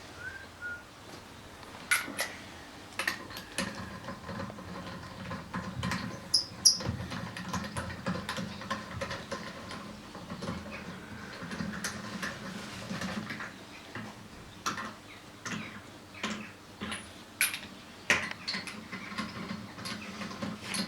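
Scattered light clicks, clinks and knocks of hand work fitting a wheel onto a car's front hub, with one sharper knock about seven seconds in.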